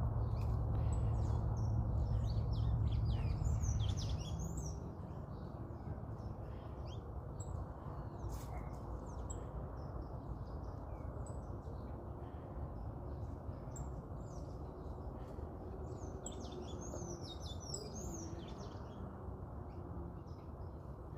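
Small birds chirping and calling in short bursts, busiest in the first couple of seconds and again after about sixteen seconds, over a steady low background noise that is louder for the first four seconds.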